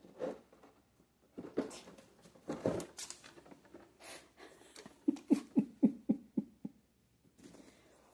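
Six-week-old kittens scuffling and scampering in play, with irregular rustles and thuds. Just past halfway comes a quick run of about seven light thumps, roughly four a second.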